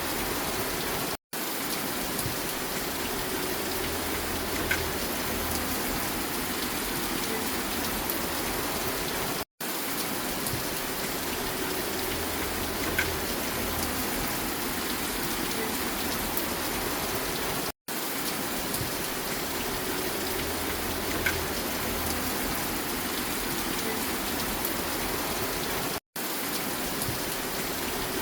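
Steady rain with a few faint drop ticks, from a short recording looped about every eight seconds. At each loop point the sound cuts to silence for a fraction of a second, four times here.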